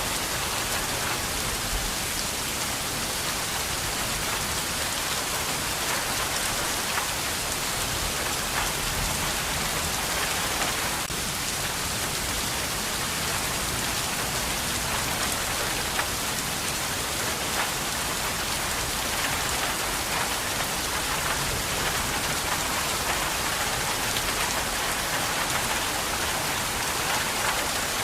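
Steady heavy rain falling and pattering on surfaces, an even, unbroken hiss of countless drops.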